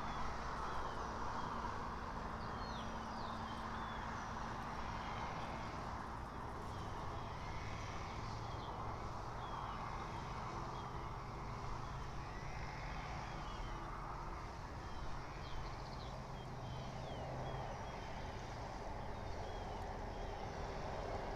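Outdoor birdsong: small birds giving short, repeated chirps, about one or two a second, over a steady rumble of distant traffic.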